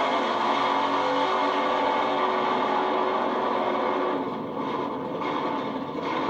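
Drag-racing engine noise, loud and steady, easing off somewhat about four seconds in.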